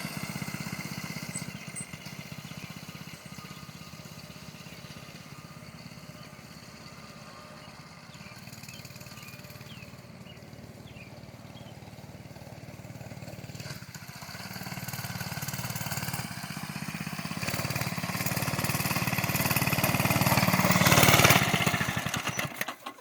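98cc gasoline engine of a mini bike running as it is ridden, fading as the bike moves away, then growing steadily louder as it comes back close, and stopping abruptly near the end.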